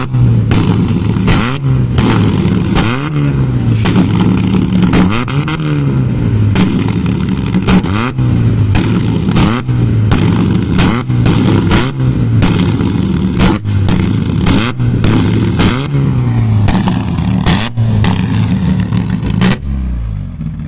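A motor engine revved over and over, its pitch climbing and dropping every second or two, with sharp clattering throughout; it eases off near the end.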